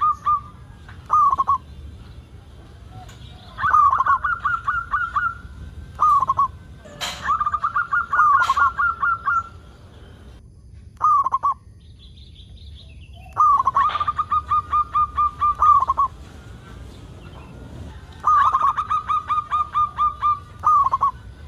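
Zebra dove (perkutut) singing its staccato cooing song: a quick run of short coo notes, then a single separate closing note, repeated about four times. Two sharp clicks sound about midway.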